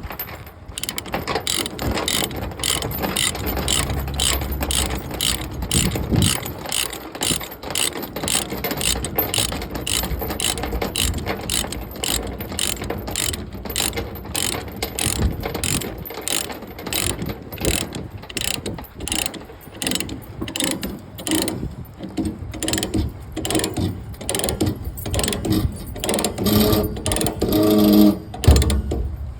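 A long, even run of mechanical ratcheting clicks, about three a second, with some lower humming tones near the end.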